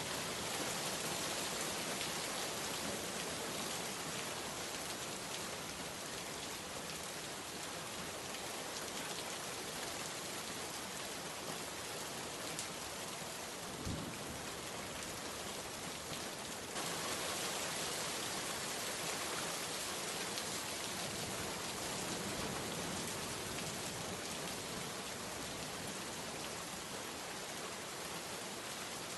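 Heavy rain falling steadily: a dense, even hiss of drops on surfaces, with one soft low thud about halfway through.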